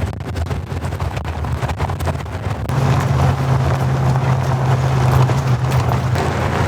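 First-generation Toyota Tacoma driving, its engine giving a steady low drone that grows stronger and fuller about three seconds in. Scattered clicks and knocks are heard during the first few seconds.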